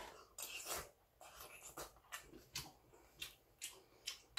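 A man chewing a mouthful of seonji-guk (ox-blood soup with congealed blood): soft, wet mouth sounds about twice a second.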